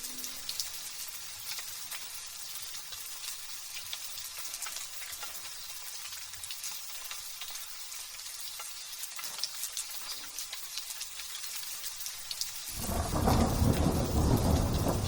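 Light rain drizzling with a steady high hiss and fine patter of drops. Near the end a loud thunder rumble sets in suddenly.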